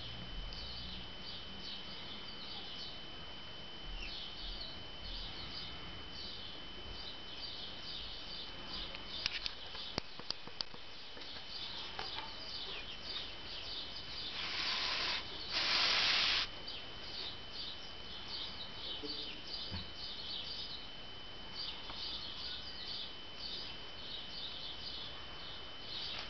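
Small birds chirping again and again in the background, with a faint steady high whine underneath. Near the middle come two loud hissing bursts, about a second each, one straight after the other.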